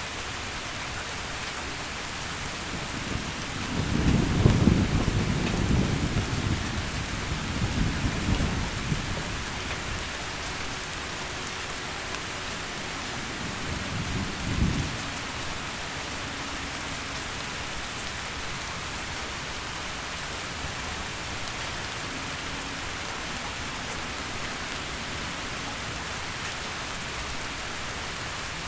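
Heavy rain falling steadily, with a rolling rumble of thunder starting about four seconds in that dies away over several seconds, and a second, shorter rumble about halfway through.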